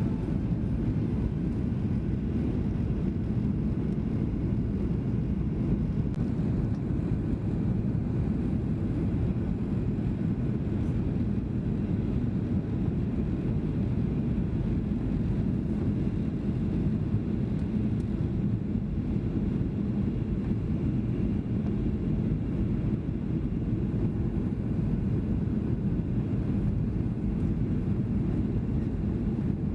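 Steady cabin drone of a Boeing 737-800 in flight: engine and airflow noise, deep and even, with no change throughout.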